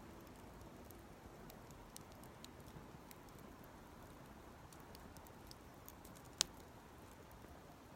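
Campfire crackling faintly: scattered small snaps and ticks over a soft hiss, with one sharper pop about six seconds in.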